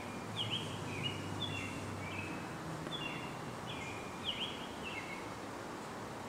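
A small bird chirping over and over, short high notes that slide in pitch, several a second, over steady outdoor background noise.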